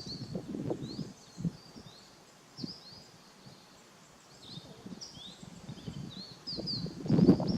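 Small birds chirping, many short quick notes repeated throughout, over a low uneven rumbling noise that swells loudest near the end.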